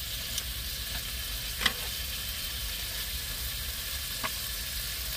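Meat sizzling in a pan, a steady hiss, with a sharp click about a second and a half in and a fainter one about four seconds in.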